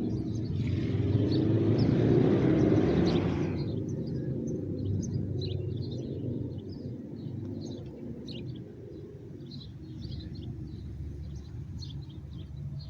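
A vehicle passing on the road, its noise swelling to a peak about two seconds in and fading by four seconds, over a steady low rumble. Small birds chirp on and off throughout.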